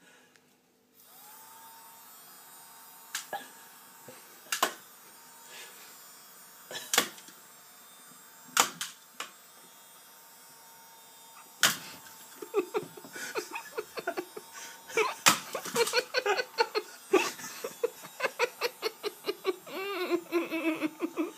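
Hoover vacuum cleaner starting up about a second in and running with a steady hum, with sharp knocks every second or two. From about halfway, a person laughs in quick repeated bursts.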